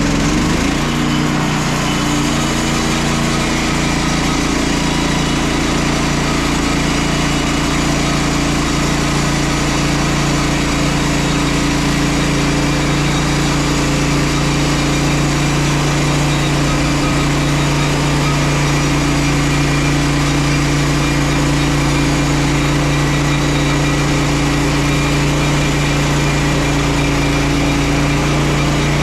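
Petrol engine of a Frontier OS27 portable band sawmill rising in pitch right at the start, then running steadily at speed as the band saw cuts through a larch log.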